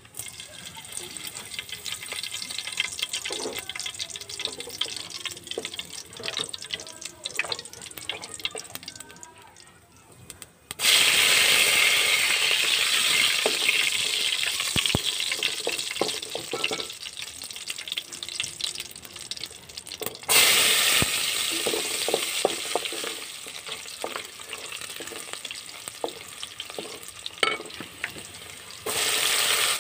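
Oil frying whole spices in a wide aluminium pot, stirred with a wooden spatula. A quieter crackle with scattered clicks gives way to a sudden loud sizzle about a third of the way in that slowly dies down, with two more loud surges of sizzling, one about two thirds in and one near the end, as more ingredients such as dried red chillies and chopped garlic go into the hot oil.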